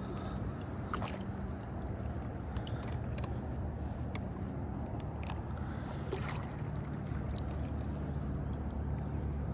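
A boat motor running steadily, its low hum shifting in pitch about six seconds in, with small clicks and water splashes over it.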